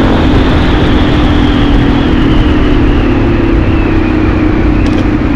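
Single-cylinder motorcycle engine running at a steady road speed, with heavy wind rumble on the microphone.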